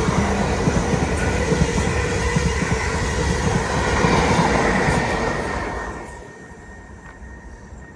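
A train running past on the tracks, its wheel and rail noise loud and rumbling, then dying away quickly about six seconds in.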